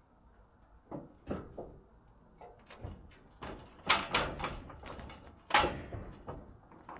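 Scattered knocks and clunks, the two loudest about four and five and a half seconds in, as a full diesel transfer tank is unstrapped and handled down off a trailer.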